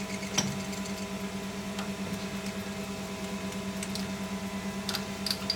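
A machine tool's electric motor running steadily with a low hum that pulses in a fast, even rhythm. A few light ticks come near the end.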